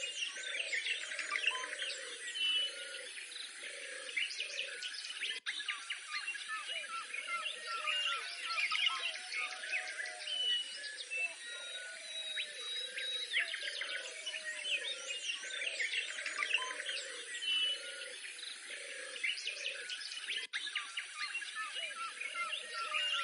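Outdoor bird chorus: many birds chirping and singing high, with a low call repeated in short arching phrases underneath. The sound cuts out briefly twice.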